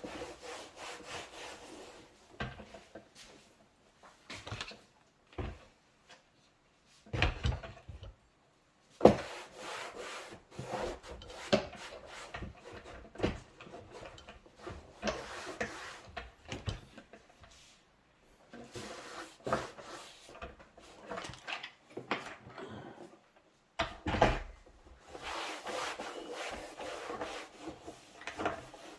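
Scrubbing and wiping a BMW E36 door card with soapy water: stretches of rubbing on the panel, broken by pauses and a few sharp knocks, the loudest about nine seconds in.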